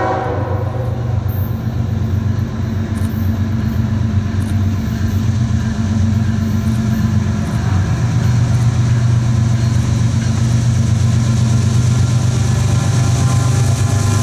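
Diesel locomotive engines running with a steady low drone that grows a little louder. The last of a multi-note train horn blast fades in the first half second, and horn tones start again near the end.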